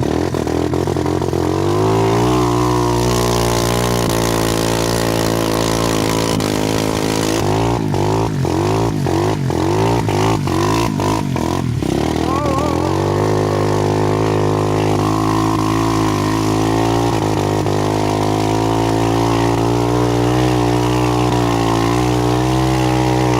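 Dirt bike engine running at high, steady revs. About a third of the way in, a run of quick throttle blips makes the pitch rise and fall several times before it settles back to a steady pull.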